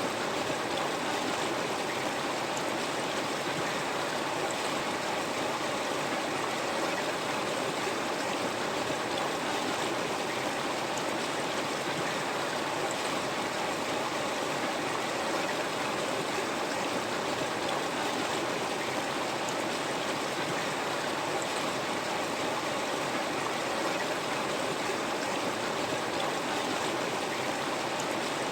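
River water flowing over stones, a steady rushing and babbling with no change.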